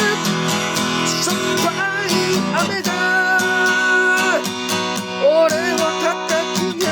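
Acoustic guitar strummed in a steady folk-rock rhythm, with a lead melody of held, wavering notes over it in an instrumental passage.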